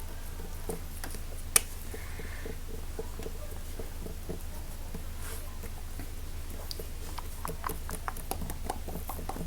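Fingers tapping and scratching on a watermelon ASMR trigger object: soft, irregular taps with one sharp click about a second and a half in, then quicker tapping toward the end. A steady low hum sits underneath.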